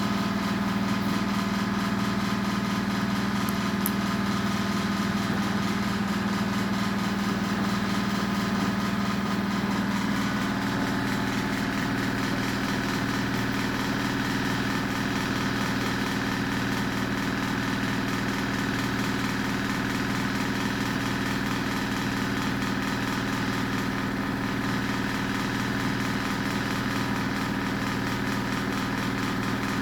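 Washing machine running mid-cycle: a steady motor hum with several held tones, which shift to a different set of tones about ten seconds in, as the motor changes speed.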